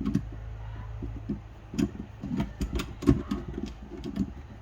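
Metal transmission parts of a Honda Civic manual gearbox clinking and knocking irregularly as they are handled and lined up, the loudest knock about three seconds in, over a low steady hum.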